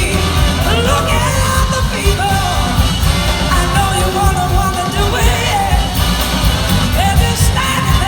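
A blues-rock band playing live through a loud instrumental passage, with a lead line that bends and slides in pitch over heavy bass and drums.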